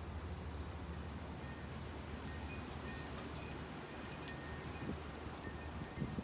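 Wind chime ringing irregularly as the wind stirs it: scattered high, bell-like notes that pick up about a second in, over a steady low rumble of wind.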